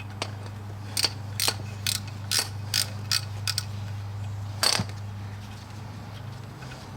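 Hand ratchet clicking in a string of separate sharp clicks, about two a second, then one louder click a second later, as a bolt is worked during front brake caliper work.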